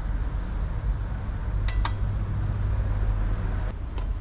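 Two quick light metallic clinks, close together, as oil cooler parts are handled during fitting, with a fainter click near the end, over a steady low hum.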